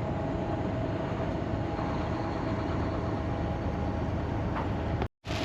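Semi-truck cab noise while driving on the highway: a steady rumble of engine and road. It cuts out abruptly for a moment about five seconds in, then resumes.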